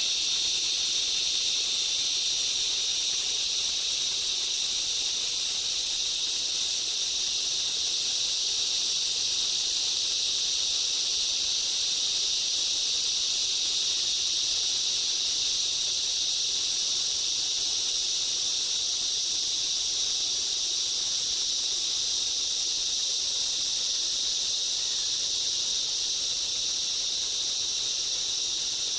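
A steady, high-pitched chorus of insects in a rainforest, an unbroken drone of several overlapping shrill tones.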